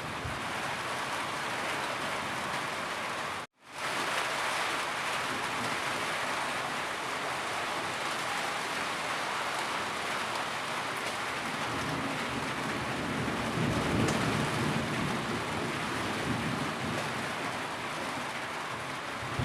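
Steady rain falling, an even hiss of many drops. It cuts out for a split second about three and a half seconds in, and a low rumble swells briefly in the second half.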